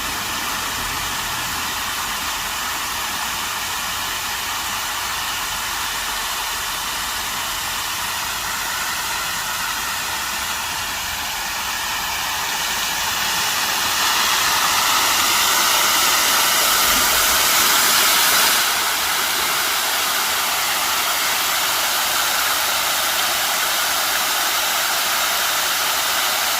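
Steady rushing of running water, an even hiss that grows louder from about halfway through and eases back slightly a few seconds later.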